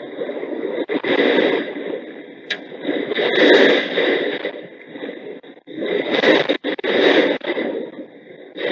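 Storm wind gusting against a security camera's microphone: a harsh, noisy rush that swells and drops off several times.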